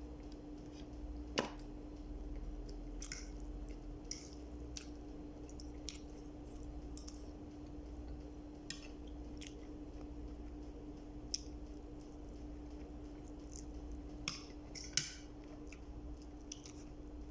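A person eating close to the microphone: scattered short, crisp chewing and biting sounds with an occasional clink, over a steady low hum.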